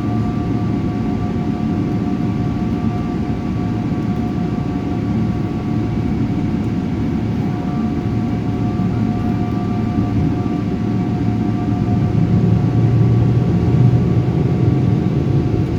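Jet airliner engine and airflow noise heard inside the passenger cabin: a steady, loud low rush with two thin whining tones held above it, growing a little louder about twelve seconds in.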